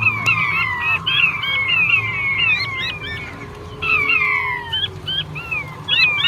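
Male king quail (puyuh batu) calling: a rapid, overlapping series of high whistled notes, each sliding quickly downward, repeated throughout.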